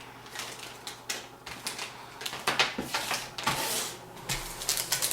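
Motherboard accessories and their packaging being handled: a run of irregular light clicks and taps with brief rustles, loudest around a second and a half in and again around two and a half to four seconds in.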